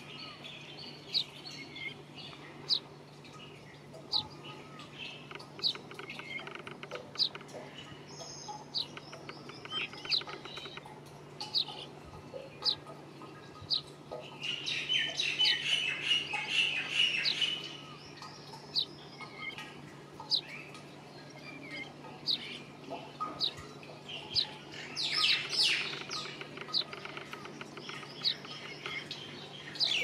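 Birds chirping: a short, high, sharp note repeated about every second and a half, with two stretches of denser twittering, one about halfway through lasting a few seconds and a shorter one near the end.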